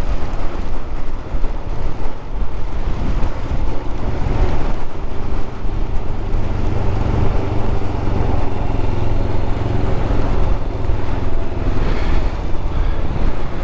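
Royal Enfield 411 cc single-cylinder motorcycle engine running at a steady road speed, holding a fairly even note. It is heard under heavy wind noise on the rider's microphone.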